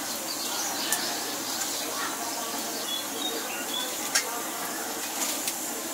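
Small birds giving a few short, high chirps about three seconds in, over a steady hiss of outdoor background noise. A few sharp clicks come through, the loudest just after four seconds in.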